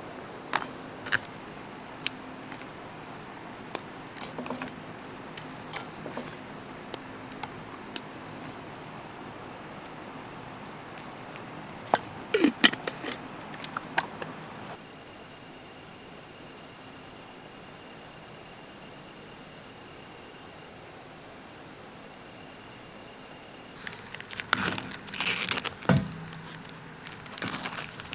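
Insects, crickets or cicadas, keep up a steady high-pitched chirring with a faint pulse. Scattered sharp clicks and a few short bursts of knocking and handling sounds come and go, most of them about halfway through and near the end.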